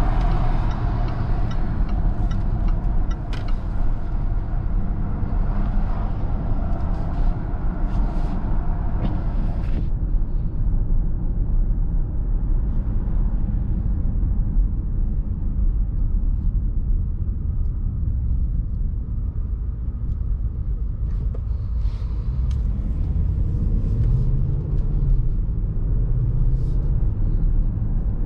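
Range Rover Sport SVR's supercharged 5.0-litre V8 running while cruising on the road, a steady low rumble mixed with tyre and road noise. The higher part of the sound drops away sharply about a third of the way in, leaving mostly the low rumble.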